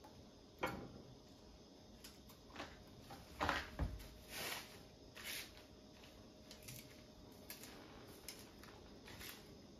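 Faint, irregular kitchen handling sounds: scattered clicks and knocks with a few short rustles, the loudest cluster about three and a half seconds in.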